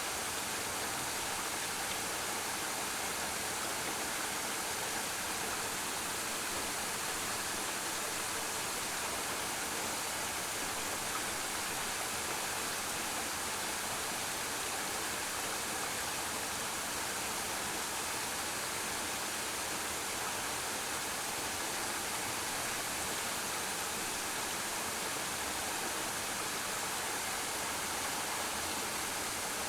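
Suok Waterfall: water falling and rushing without a break, a steady even hiss strongest in the upper range.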